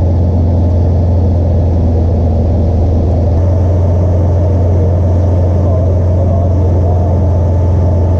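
Amphicar 770's rear-mounted Triumph four-cylinder engine running steadily under way, heard from aboard as a loud, even low drone.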